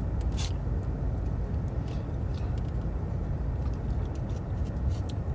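Steady low rumble inside a car, with a few faint clicks.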